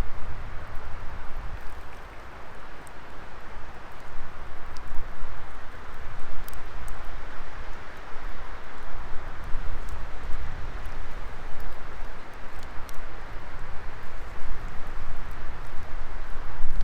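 Wood fire burning in a fire pit: a steady rush of flames over a low rumble, with occasional sharp crackles and pops.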